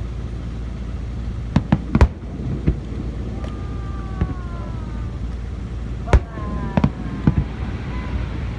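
Fireworks bursting: a quick cluster of three sharp bangs about two seconds in, then another group of bangs around six to seven seconds, over a steady low rumble.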